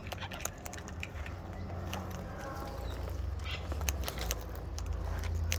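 Scattered small clicks and scrapes from wild cockatoos' beaks and claws close to the phone, over a steady low rumble of wind or handling on the microphone.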